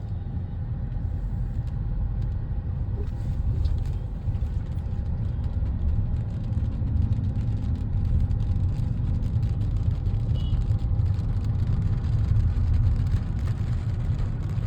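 A road vehicle driving along, heard as a steady low rumble of engine and tyres.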